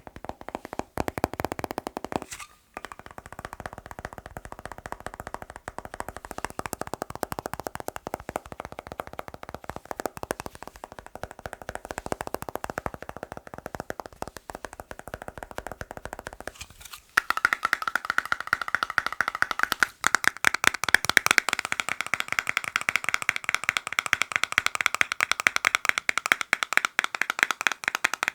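Fast, continuous finger tapping on hard objects, many taps a second. The sound changes to a different object about two and a half seconds in and again around seventeen seconds in, after which the tapping is louder and higher-pitched.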